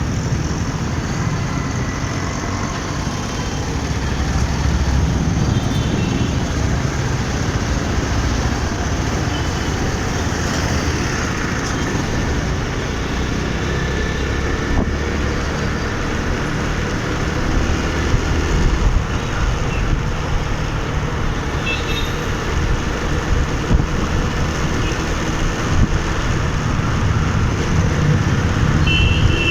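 City road traffic heard from a moving motorcycle: a steady low rumble of engines, tyres and wind, with a few faint short high tones about two-thirds of the way in and again near the end.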